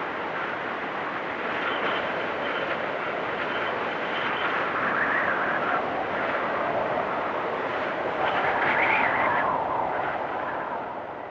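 Blizzard wind blowing in a steady rush, with gusts swelling about halfway through and again near the end before easing off.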